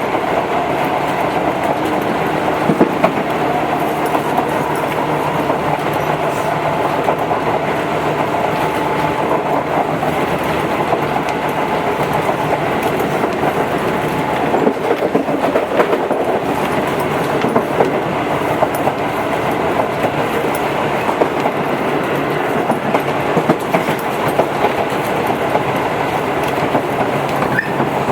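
Tobu 8000 series electric train running between stations, heard from inside the car: a steady rumble with a droning tone and scattered short clicks of the wheels over the rails.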